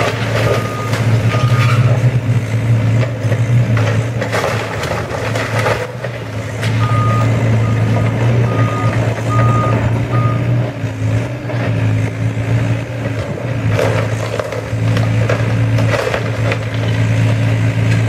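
Heavy diesel demolition machinery running steadily, with a reversing alarm beeping in evenly spaced tones at the start and again from about 7 to 10 seconds in. Several cracks and crunches of the house being broken up sound over the engine.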